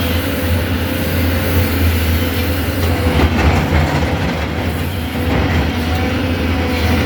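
Cat 320 hydraulic excavator working, its diesel engine running with a steady deep drone and a constant whine above it. The sound turns rougher and noisier for a moment about halfway through.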